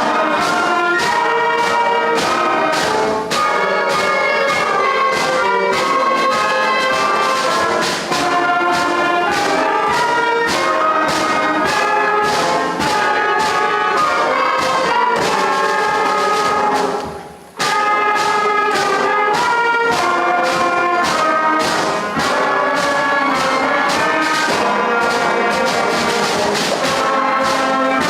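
School concert band playing a piece with brass prominent and a steady beat; the music stops briefly about 17 seconds in and starts again.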